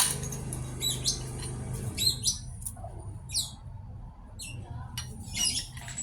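Birds chirping: many short, high chirps at an irregular pace, over a low steady hum that stops about two seconds in.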